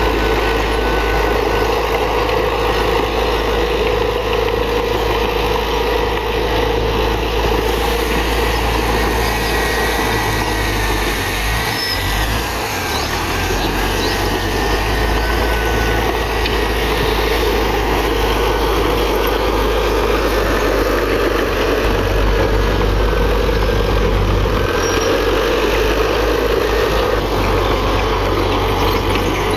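Heavy diesel earthmoving machinery running steadily under load, with a short dip about twelve seconds in.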